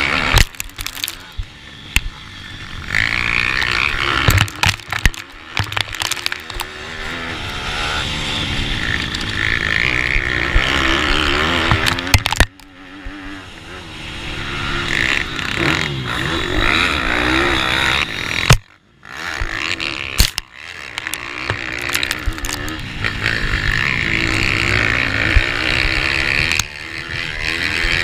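Pitbike engine at racing speed, a 160cc single-cylinder four-stroke, revs climbing and falling over and over through the laps, with crackling noise throughout. The sound drops out sharply twice, about halfway through and again a few seconds later, then builds back up.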